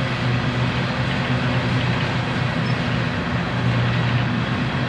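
Coal train hopper cars rolling past steadily: a continuous rumble and rail noise from the wheels on the track.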